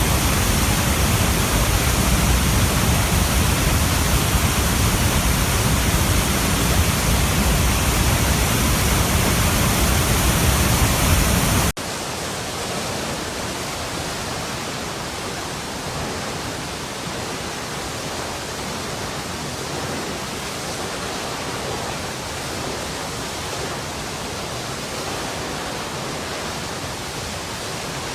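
Running water making a steady, even rush with a deep rumble underneath. About a third of the way in it cuts off suddenly to a quieter, thinner rush with little of the rumble left, as if switching to a different stretch of flowing water.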